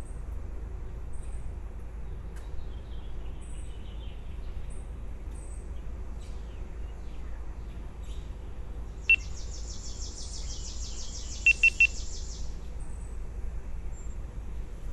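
Birds calling: thin high chirps repeat throughout, a rapid buzzy trill starts about nine seconds in and lasts about four seconds, and four sharp, short high pips stand out, one just before the trill and three in quick succession near its end.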